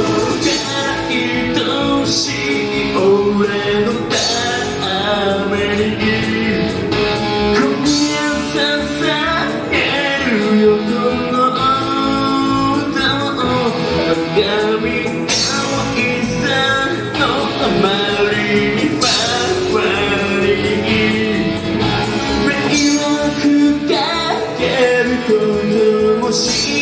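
Live rock band playing an instrumental passage, with electric guitar over drums keeping a steady beat.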